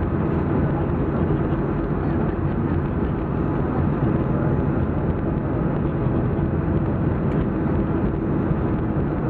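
Steady low cabin noise inside a Boeing 737-400 taxiing after landing, its CFM56-3 engines at idle.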